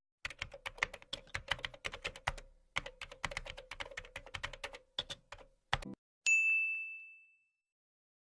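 Rapid keyboard typing, a quick run of clicks with a brief pause partway, then a single high bell ding that rings out for about a second.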